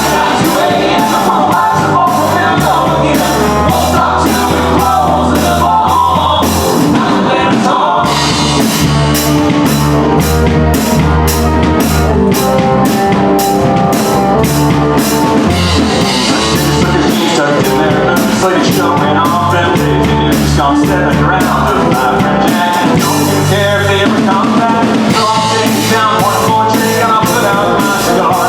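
Live country band playing a song at full volume: drum kit keeping a steady beat under bass and electric guitar, with a lead singer.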